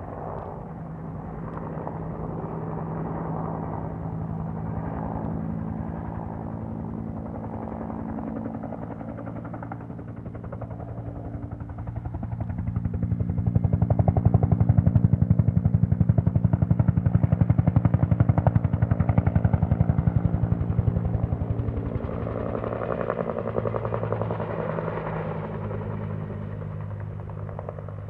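Helicopter flying over: a steady engine sound with a rapid rotor beat swells about twelve seconds in, stays at its loudest for several seconds, then fades.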